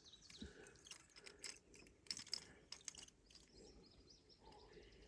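Near silence with faint scattered clicks and rustles of hands working treble hooks and tangled line out of a hooked bass.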